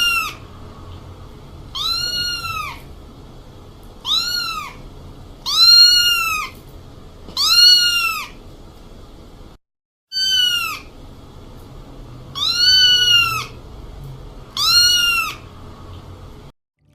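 Cat meowing over and over, about eight high-pitched meows, each rising and then falling in pitch. The sound drops out briefly about two-thirds of the way through and cuts off suddenly near the end.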